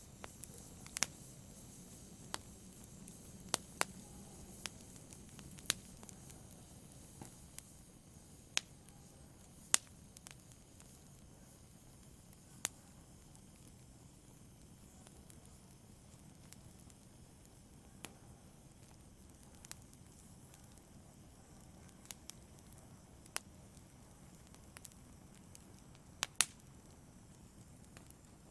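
Wood fire burning in a fireplace: a low, steady hiss of flame with sharp, irregular crackles and pops, frequent in the first ten seconds and sparser after, with a quick double pop near the end.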